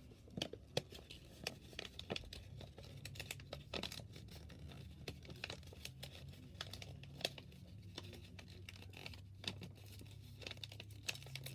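A sheet of printer paper being folded and creased by hand: irregular crinkles, rustles and small crackles throughout.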